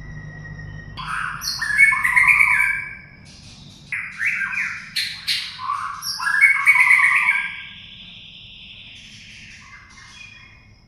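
White-rumped shama singing: phrases of quick, rich sliding whistles mixed with harsher chattering notes, one phrase about a second in and a longer one from about four seconds, the second ending in a long arching whistle. After about eight seconds only fainter notes remain.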